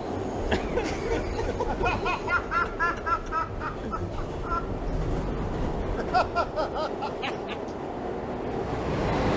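A man's high-pitched, uncontrollable laughing fit in quick, even pulses, coming in two bouts, over the steady rumble of a moving subway car. He later puts the laughter down to a condition he has.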